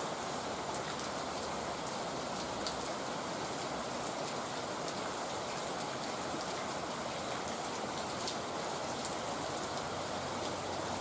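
Heavy rain falling steadily, an even hiss with scattered sharp ticks of individual drops striking.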